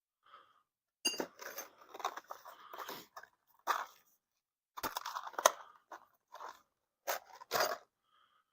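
Small hand tools being handled: irregular clicks, rattles and scrapes, with a couple of louder knocks about five and a half and seven and a half seconds in.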